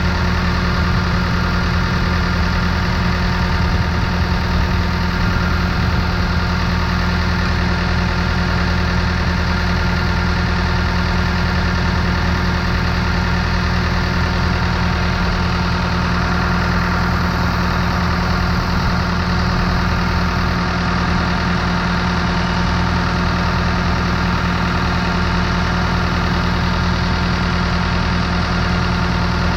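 Schwing SP 500 trailer concrete pump's engine running steadily at a constant speed, its throttle cable held onto the throttle by a zip tie after the cable coupler popped off.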